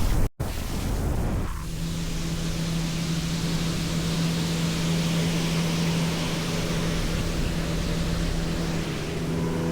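A small motor runs at a steady, unchanging pitch over a haze of wind and water noise, starting about a second and a half in.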